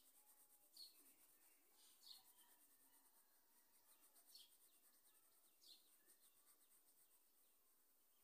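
Near silence with a small bird chirping faintly in the background: four short, falling chirps spread over the first six seconds.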